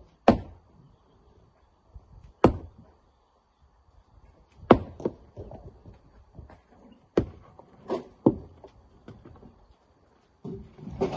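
Irregular sharp knocks of manual rock work, the crack of rock being struck or dropped, about seven blows spaced one to two and a half seconds apart. A louder noisy rush starts near the end.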